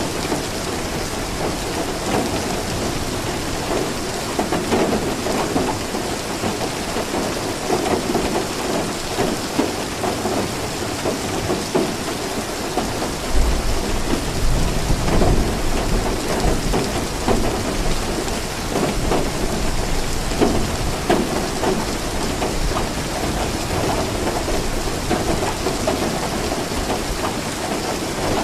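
Steady rain falling, with a low roll of thunder starting about halfway through and rumbling for several seconds.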